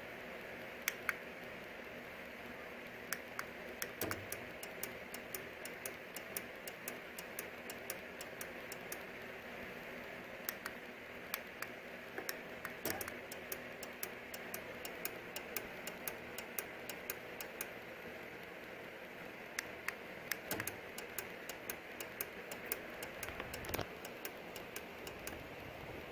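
Craftsman 1/2 HP chain-drive garage door opener, chain removed, humming steadily while giving off rapid, irregular clicks, several a second, with a few short pauses. The clicking is the fault the owner cannot cure by adjusting the force and limit settings; with the chain on, the door opened only 2 feet and then clicked.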